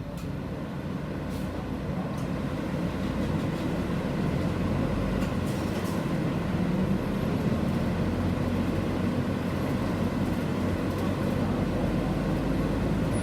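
City bus cabin noise: the engine running with road rumble, growing louder over the first few seconds as the bus gathers speed, then holding steady.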